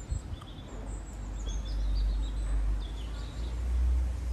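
Small birds chirping over a low rumble that swells about a second in and is loudest near the end.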